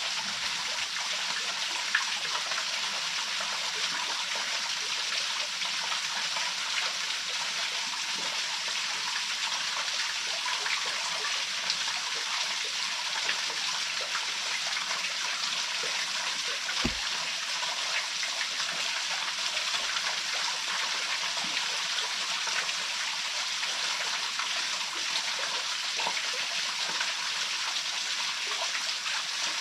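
Waterfall pouring steadily: an even, unbroken rush of falling water, with a single brief low thump about seventeen seconds in.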